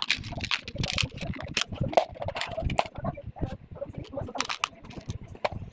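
Irregular run of small clicks and taps from toys being handled.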